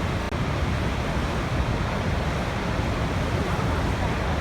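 Waterfall: falling water rushing steadily, with a split-second dropout about a third of a second in.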